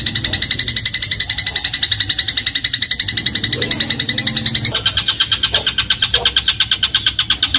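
Eurasian tree sparrow (burung gereja) singing a long, very fast rattling trill of short high notes, many to the second. The trill steps down to a slightly lower pitch about five seconds in.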